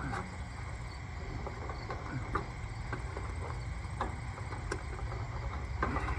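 Scattered light clicks and taps of hands and tools working on small parts and fasteners, a handful of irregular knocks over a low steady rumble.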